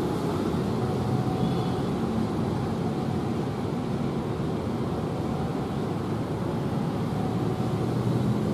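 Steady rumble of a train running past.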